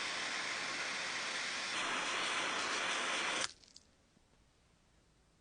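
A spray hissing steadily after a sharp click, getting a little louder about two seconds in, then cutting off suddenly.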